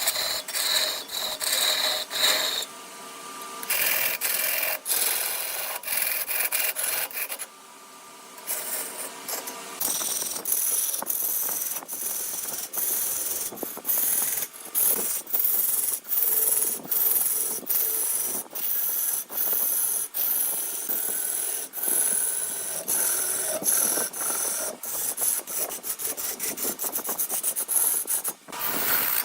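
A hand-held turning tool scraping and cutting wood on a spinning lathe: a high-pitched rasping hiss, broken by many short sudden gaps.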